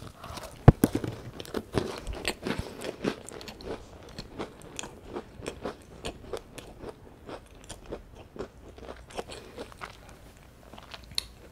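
Close-miked biting and chewing of a piece of plain scone spread with strawberry jam: a sharp bite near the start, then continuous chewing full of small irregular clicks.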